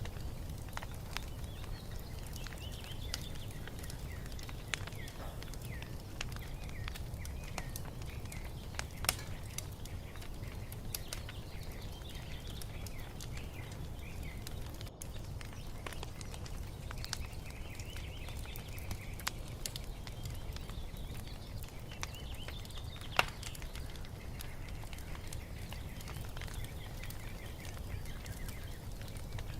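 Wood fire crackling with scattered sharp pops over a low steady rumble, with two louder pops about a third and three-quarters of the way in. Small songbirds chirp over it.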